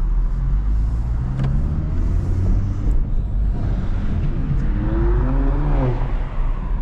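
2025 Honda Civic Type R on the move: a steady low rumble of engine and road, with a pitch that rises and falls back about five seconds in.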